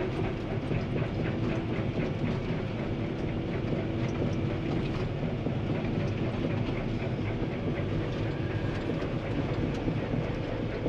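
Excavator's diesel engine running steadily under working load, with a rattle and clank of the tracks and machine.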